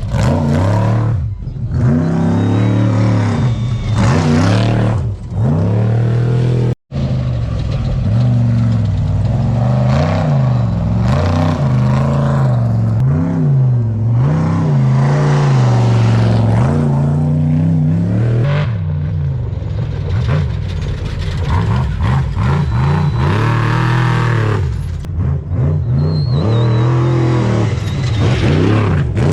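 Trophy truck V8 race engines at race pace, the revs swinging up and down rapidly as the throttle is worked. The sound cuts out for an instant about seven seconds in.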